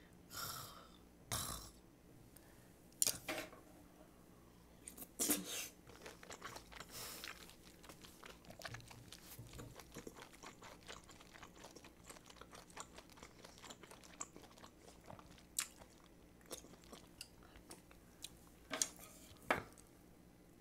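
Close-miked chewing of spicy stir-fried octopus and butter-grilled abalone: wet mouth sounds with a string of sharp clicks and smacks, denser and softer through the middle, with a few louder smacks in the first seconds and near the end.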